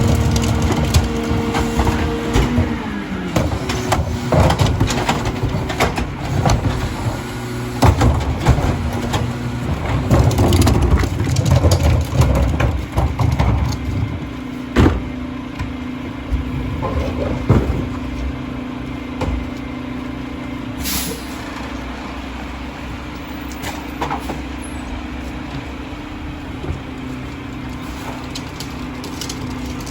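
Mack LR rear-loader garbage truck running at work: its engine note drops about two and a half seconds in, with repeated bangs and clatter as carts are dumped and trash falls into the Heil hopper. A short air hiss comes about twenty seconds in.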